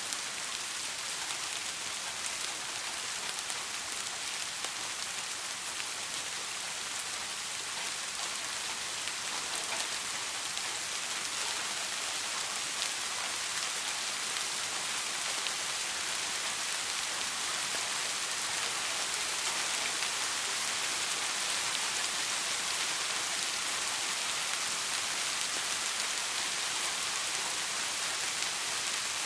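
Steady soft rain, a continuous hiss with many small drop ticks. No thunder.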